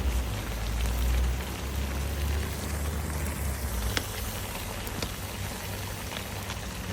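Wood cooking fire: a steady hiss with a few sharp crackles. A low rumble fades out over the first two seconds.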